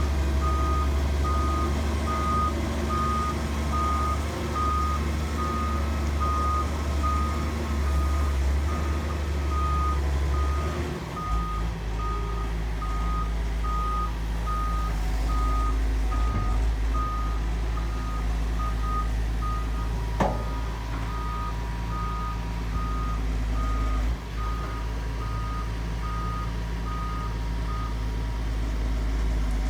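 Excavator's travel or reversing alarm beeping in a steady, evenly spaced series at one pitch over the low rumble of its diesel engine; the engine note drops about a third of the way in, and the beeping stops shortly before the end. A single sharp knock near the middle.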